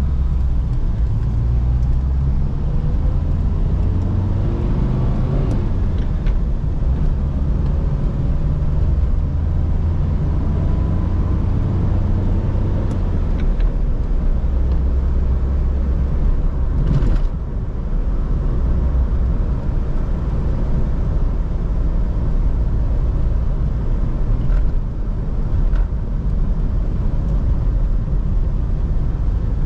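A 1983 Toyota Corolla KE70's 1.3-litre carburetted four-cylinder engine running while the car is driven. The engine note rises in pitch over the first several seconds as it accelerates, dips briefly a little past halfway, then runs steadily.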